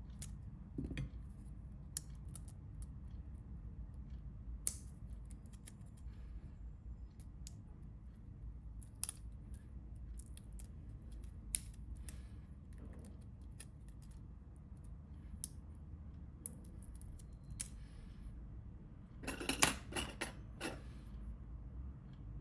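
Small metal hand tools clicking and tapping against a phone's parts during a repair: scattered sharp ticks, then a quick run of clicks near the end, over a low steady hum.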